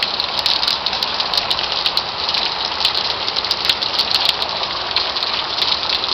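Heavy rain pouring steadily, a constant hiss with many sharp ticks of drops striking close to the microphone.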